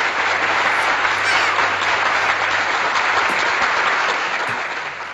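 Applause, a steady dense clapping that fades out near the end, apparently an edited-in sound effect.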